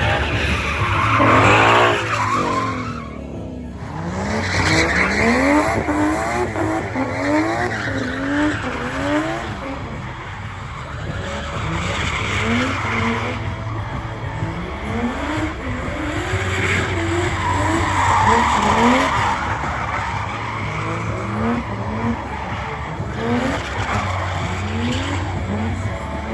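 A vehicle engine revved hard again and again, its pitch sweeping up in quick repeated climbs, over the steady hiss and squeal of spinning tires in a burnout.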